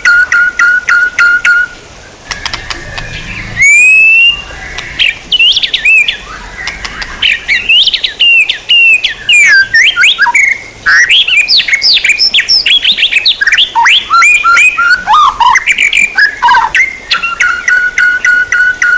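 Recorded songbird song: a fast, even train of repeated whistled notes, a brief pause, then a long run of varied whistled phrases with rising and falling glides, and the fast repeated-note train returning near the end. It is a masteran track, bird song played to teach caged songbirds.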